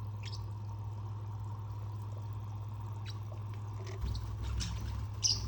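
A steady low hum with water trickling, and a few brief, high sharp chirps or clicks, the loudest near the end.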